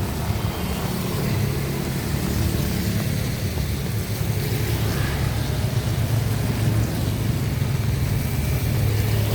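Street traffic on a wet road: a car engine running close by with a steady low hum, over an even hiss of rain and tyres.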